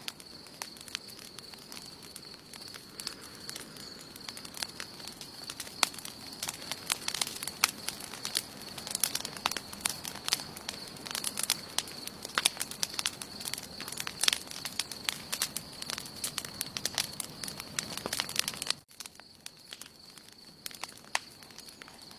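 Wood campfire crackling with many irregular sharp pops over a soft hiss of burning, over a faint steady high tone. The popping thins out abruptly near the end.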